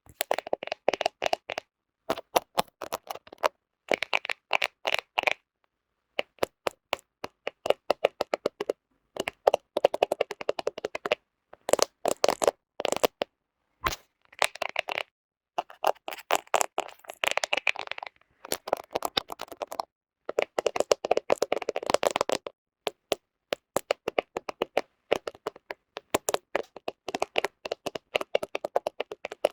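Fingernails tapping and scratching on a smartphone camera close to the microphone: quick runs of sharp clicks lasting a second or two, broken by short pauses.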